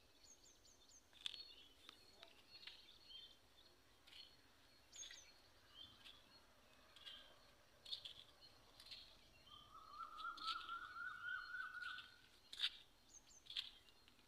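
Faint birds chirping: scattered short high calls, with a rapid trill lasting a couple of seconds past the middle. A few soft ticks are mixed in.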